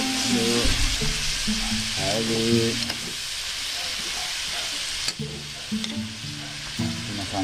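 Yardlong beans and pork stir-frying in a metal pan, a steady sizzle as a spatula turns them, with a few sharp clicks of the spatula against the pan. Music with a singing voice plays underneath at times.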